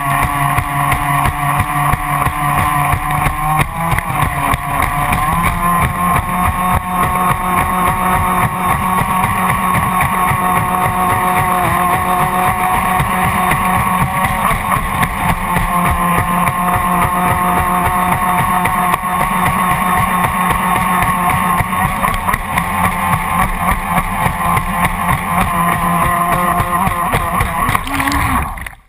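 Brushed Graupner 700 BB Turbo electric motor and surface-drive propeller of an RC speedboat running at speed, heard from a camera mounted on the hull: a steady motor whine over rushing water. The pitch steps up about five seconds in, and near the end it dips and the sound stops abruptly.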